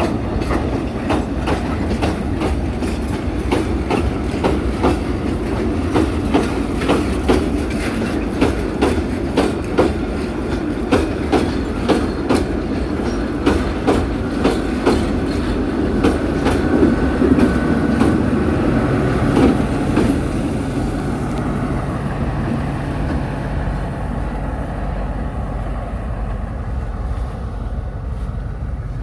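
Train wagons rolling past, their wheels clacking over the rail joints in quick pairs over a rumble. The clacking thins out and stops about two-thirds of the way through, leaving a low steady rumble.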